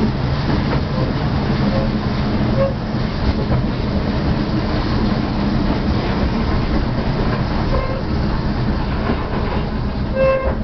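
Narrow-gauge train running, heard from inside a passenger carriage: a steady rumble and clatter of wheels on the rails, with the drone of two Simplex petrol locomotives running alongside.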